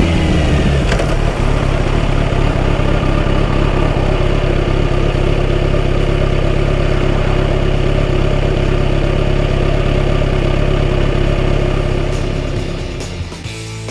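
Kawasaki Z900RS inline-four engine idling steadily through a full-system exhaust, fading out near the end.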